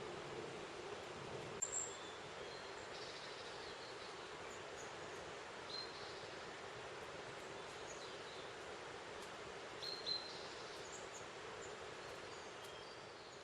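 Goldcrest giving short, very high, thin calls, scattered a few at a time, over a steady background hiss; the loudest come a couple of seconds in and again about ten seconds in.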